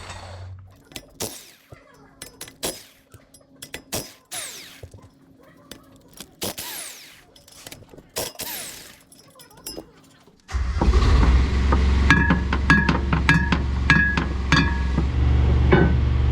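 A power tool takes bolts off: short bursts that wind down in falling whines, among metal clicks and knocks. About ten seconds in, a motor starts suddenly and then runs steadily with a loud, low drone.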